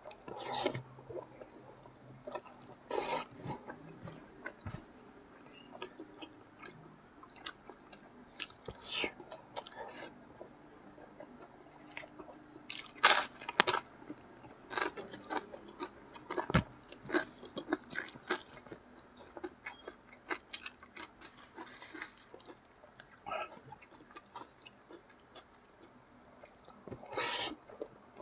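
Close-up eating sounds: wet chewing and lip smacking, broken by sharp crunching bites of crispy fried tempeh, the loudest about halfway through.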